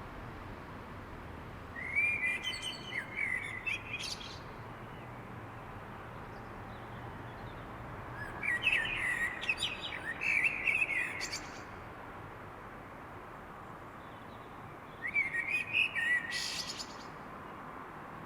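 A songbird singing three separate phrases of varied whistled and twittering notes, each about two seconds long, with pauses of several seconds between them, over a steady background hiss.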